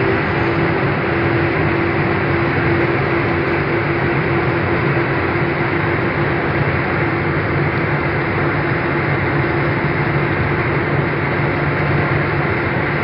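Truck driving at steady speed on a highway: engine and tyre noise in an even drone with a constant low hum.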